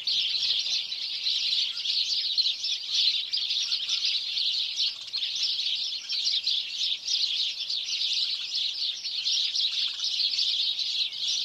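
Many small birds chirping continuously, a dense, unbroken chorus of short, high, overlapping chirps.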